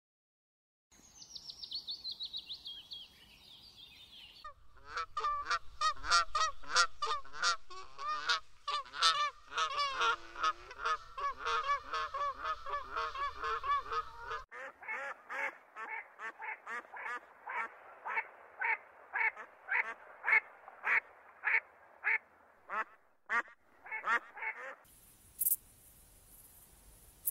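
Black-necked swan calling: a long run of short, soft honking notes, repeated several times a second. It is followed by a second run of shorter repeated calls. Near the end, bush crickets make a steady, very high-pitched buzz.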